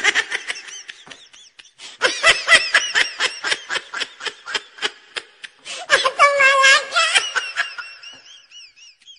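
A person laughing in quick rhythmic bursts, breaking into a long high-pitched squeal about six seconds in, then fading to faint high chirps near the end.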